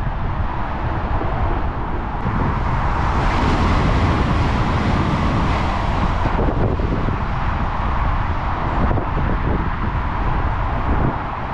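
Southeastern Class 395 Javelin high-speed electric train passing at speed, its rushing wheel and air noise building then cutting off abruptly a little past halfway, over a steady low buffeting of wind on the microphone.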